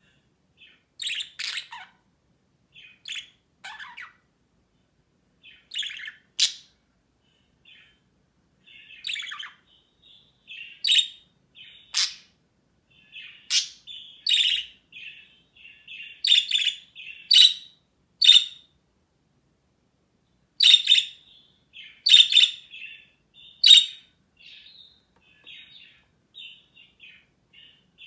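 Budgerigars chirping and chattering, answering one another in short high calls with scattered louder, sharp chirps and brief pauses between bouts.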